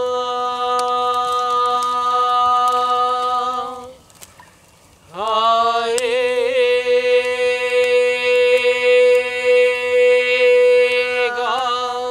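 A voice chanting a long tone held on one pitch. About four seconds in it stops for a breath, then scoops up from below back to the same note and holds it again.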